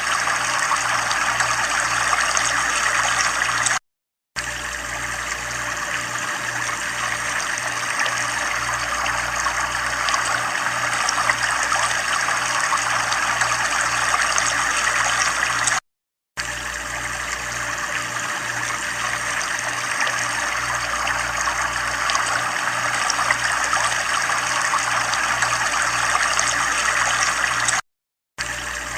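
Running water trickling steadily. The sound cuts out to silence briefly three times, about twelve seconds apart, with a faint low pulsing hum underneath.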